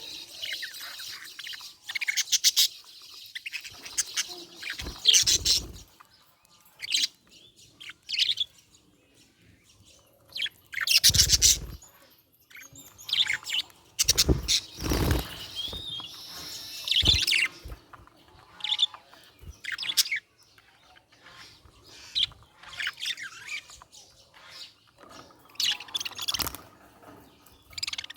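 Budgerigar chirping and warbling in short, irregular bursts of high chirps with brief pauses between. A few louder bursts come with low thumps, around 5, 11 and 14 to 15 seconds in.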